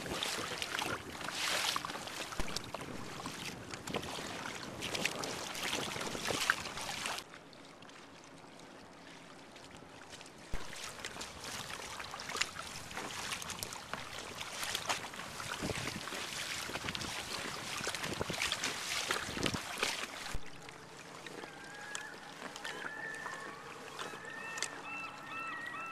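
Water swishing and splashing around an inflatable kayak under way, with some wind on the microphone and several abrupt changes in level. Near the end, birds call repeatedly in short, quick notes.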